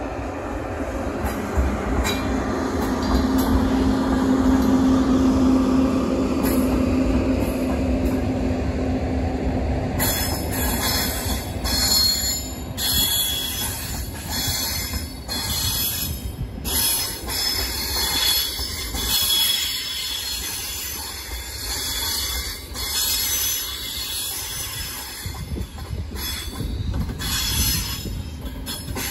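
A train moving on rails, with a steady hum over running noise for about the first third. Then comes a high wheel squeal that comes and goes, typical of wheels on curved track.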